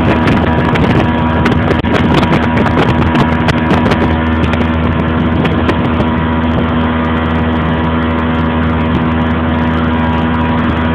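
Motorboat's outboard engine running steadily at speed, with water and wind noise.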